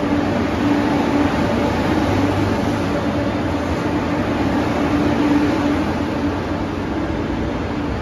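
Double-deck passenger train rolling past a station platform: a steady rumble with a low, even hum.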